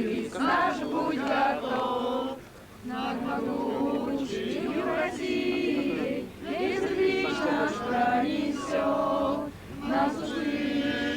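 A group of voices singing a song together, unaccompanied, in phrases with short breaks between them.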